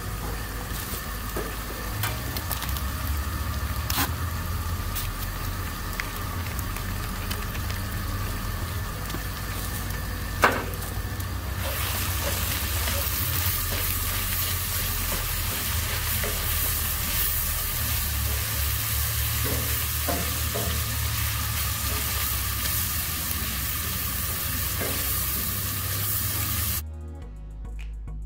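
Hamburger meat with taco seasoning sizzling in a cast iron skillet on a camp stove while a utensil stirs and scrapes it. A few sharp knocks of the utensil against the pan come through, and the sizzle grows louder about twelve seconds in. Near the end the sound cuts off suddenly and gives way to music.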